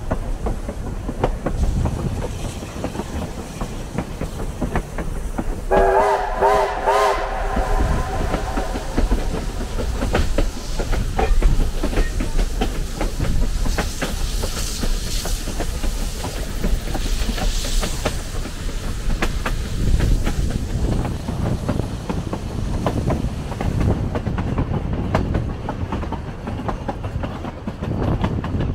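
Narrow-gauge train rolling, with a steady rumble and rail clicks throughout. About six seconds in, a chime train whistle sounds once for about a second and a half.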